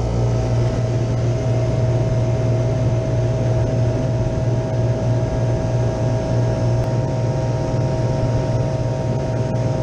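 Refrigeration condensing unit of an open deli cooler running: compressor and condenser fan giving a loud, steady hum with a constant tone above it, the unit now cooling the warm case.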